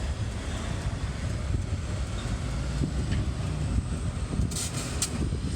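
Vehicle engines running in a steady low rumble, mixed with wind noise on the microphone. A few short bursts of hiss come near the end.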